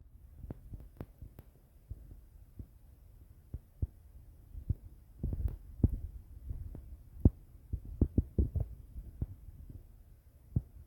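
Wind buffeting the microphone in a gusty storm: an irregular low rumble broken by many short thumps and pops, heaviest in the middle of the stretch.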